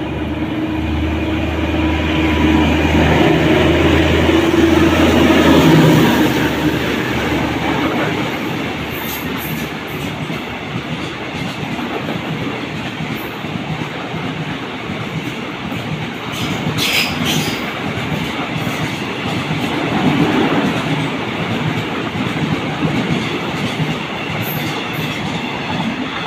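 Diesel locomotive passing close under power, its engine hum building to a peak about six seconds in, then a long train of tank wagons rolling by with steady wheel-on-rail clatter and a brief sharp squeal partway through.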